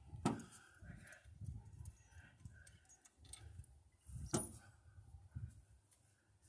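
Metal hand tools and bolts clinking while an exhaust manifold is taken back off an engine, with two sharp clinks, one just after the start and one about four seconds in, and lighter ticks between.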